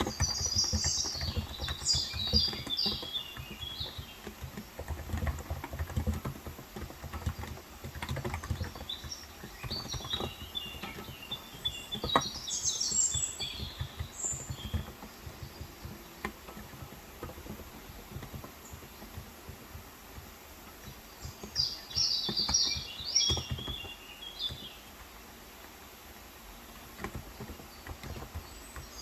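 Typing on a Cox Endeavour electrostatic capacitive (contactless) 35 g tenkeyless keyboard: a steady patter of soft, low keystrokes that thins out in the second half. Birds chirp in three short bursts of song, near the start, in the middle and about three-quarters through.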